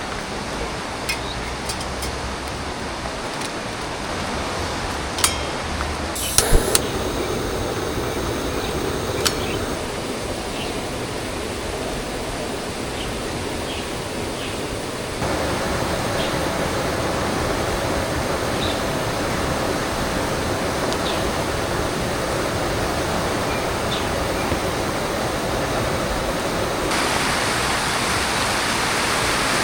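Steady rush of a flowing river, getting louder in a step about halfway through and again near the end, with a few sharp clicks in the first ten seconds.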